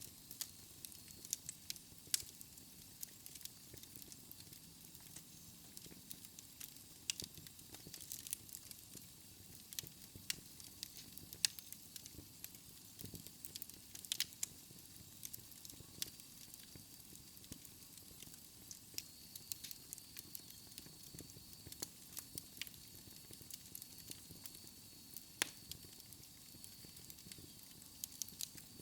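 Wood fire in a fireplace crackling quietly, with frequent irregular pops and snaps over a soft steady hiss.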